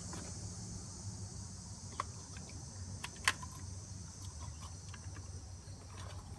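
Steady high-pitched chirring of insects, with a few short clicks and knocks, the sharpest about three seconds in.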